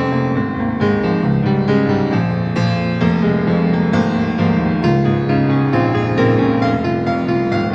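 Solo piano playing an instrumental interlude of a slow song, sustained chords and notes struck one after another, with no singing.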